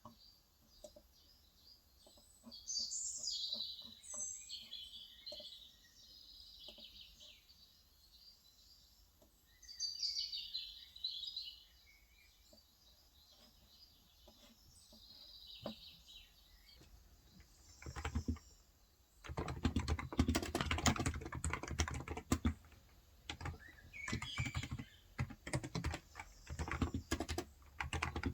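Birds chirping in short bursts, then from about 18 seconds in, fast steady typing on a COX Endeavour tenkeyless keyboard with electrostatic capacitive 35 g switches.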